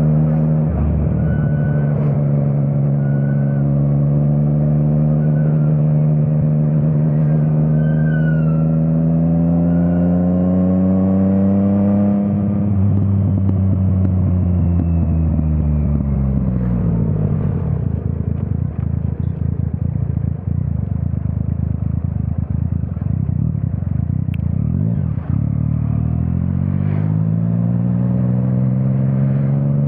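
Yamaha MT-09's inline three-cylinder engine through an Akrapovič exhaust. Revs climb steadily, then about twelve seconds in it rolls off and drops to a low, rough rumble on the overrun, and the revs rise again near the end.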